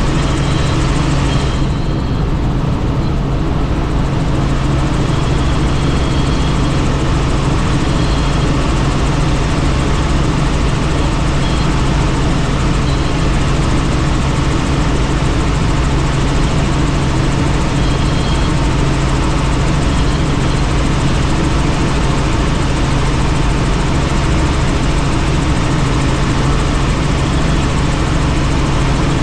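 Helicopter in flight, its rotor and engine heard from on board as a loud, steady noise with a deep constant hum beneath it.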